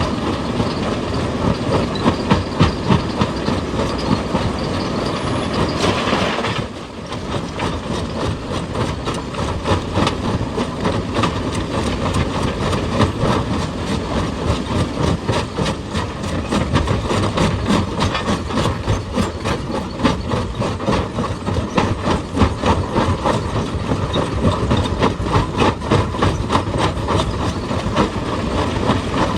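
Heavy excavator working rock: engine running under a dense, rapid clatter of knocks, with a short dip in level about seven seconds in.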